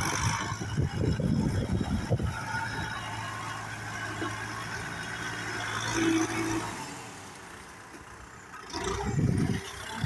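Kubota tractor's diesel engine running while pushing soil. It holds a steady note through the middle, eases off briefly, then rumbles unevenly again near the end.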